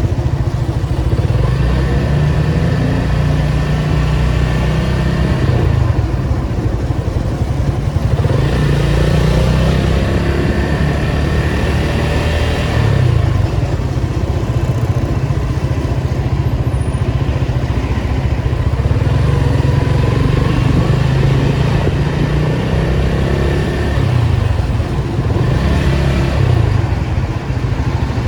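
Datsun 280Z's straight-six engine running in slow traffic, a steady low drone, with broader road and traffic noise swelling a few times.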